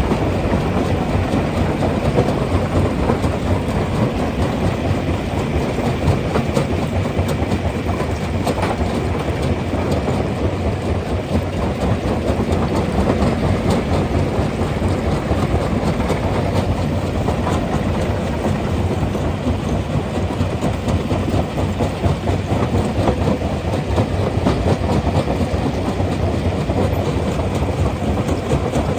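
Rock crusher running continuously, with a steady dense clatter of stone knocking and rattling through the machine.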